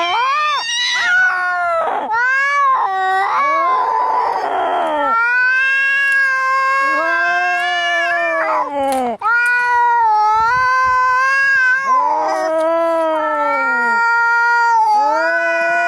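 Cats caterwauling in a fight: a string of long, drawn-out yowls that rise, hold and sag in pitch, one after another, with a harsh hiss a few seconds in.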